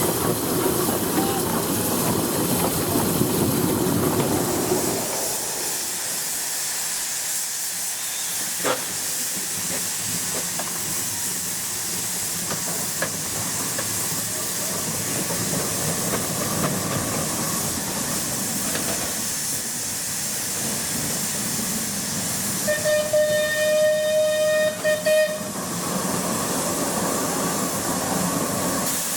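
Steam traction engine hissing steam, louder for the first five seconds, then one steady whistle blast of about two and a half seconds near the end.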